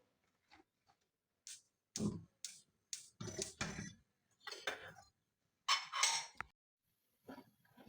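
Dishes and cutlery being handled and set down: a string of short, separate clinks and knocks.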